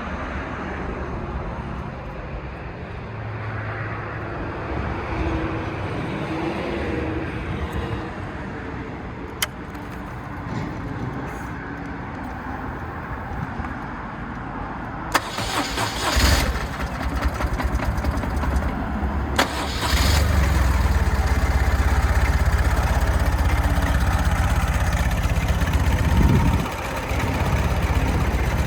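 Starter cranking on a BMW R1200C's 1170 cc boxer twin on a cold start, about halfway in. The engine catches and settles into a steady idle, with a short blip of the throttle near the end.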